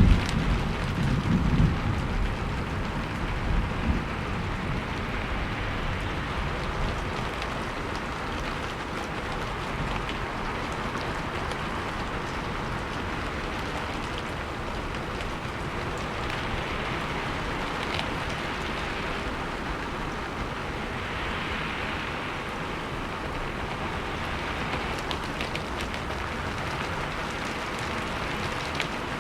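Steady rain falling, a dense, even hiss with faint scattered drop ticks. A deep low rumble fades away over the first few seconds.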